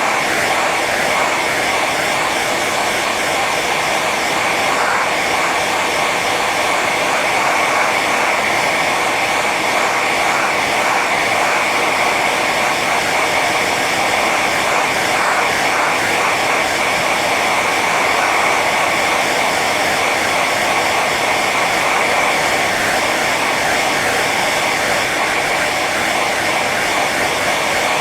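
Hair dryer running steadily on its high setting: an even rush of blown air with a steady whine from the fan motor.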